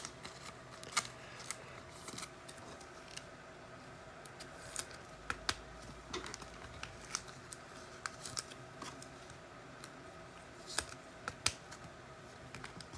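Scattered small clicks and taps from handling trading cards and their packaging, over a faint steady hum.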